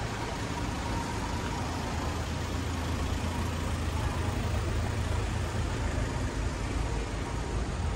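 Car engines idling in a queue of stopped traffic, heard close up as the cars are passed: a steady low engine hum over general street noise.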